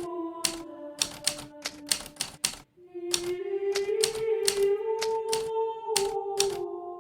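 Hermes Baby manual portable typewriter keys striking in an uneven typing rhythm, a few strokes a second, with a brief pause about halfway through. Background music with long held notes plays underneath.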